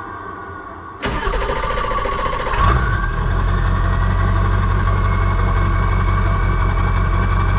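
Ford Super Duty's 7.3 Power Stroke turbo-diesel V8 cranking with a fast starter rhythm about a second in. It catches after about a second and a half and settles into a steady diesel idle.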